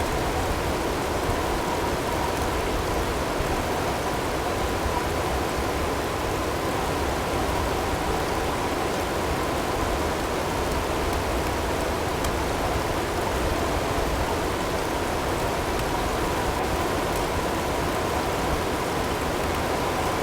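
Snowstorm ambience: a steady, even rush of blizzard wind and blowing snow with no letup. A faint steady tone sits underneath it, and now and then there is a faint tick.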